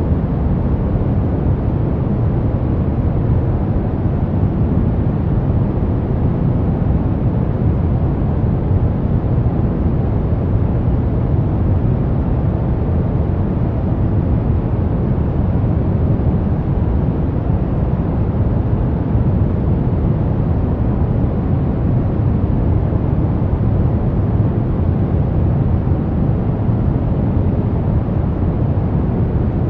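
Steady brown noise: an even, deep rumbling hiss, strongest in the low end and falling off toward the highs, with no changes.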